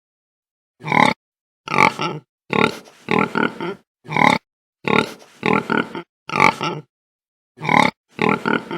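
Donkey braying: a run of short, harsh calls roughly one a second, starting about a second in.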